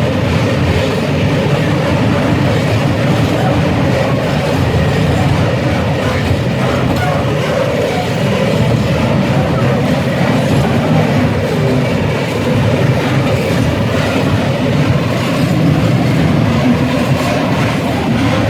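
Freight train passing close by: a steady, loud rumble of wheels rolling on the rails.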